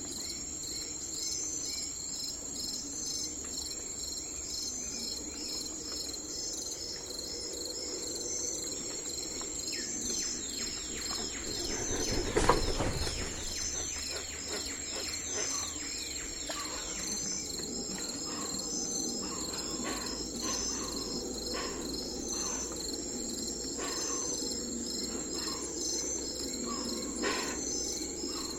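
Night ambience of a steady, pulsing chorus of crickets and other insects, with short falling bird calls over it and a single short thump about twelve seconds in, the loudest moment; later, short calls repeat every second or so.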